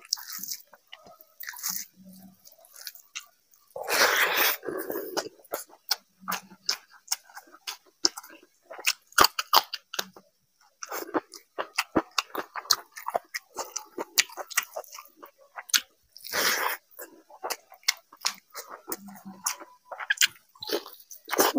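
Close-miked chewing and mouth noises of a man eating chicken curry and rice by hand: many short sharp clicks from the mouth and fingers, with two louder noisy bursts about four and sixteen seconds in.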